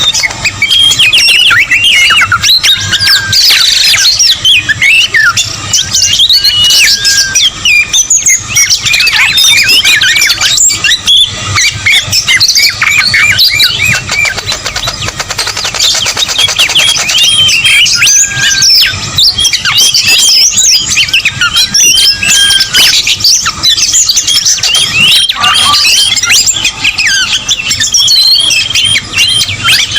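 Dense, loud chorus of many songbird calls at once: rapid overlapping whistles and chirps from a noisy bird-lure recording. The species present at this point cannot be told apart.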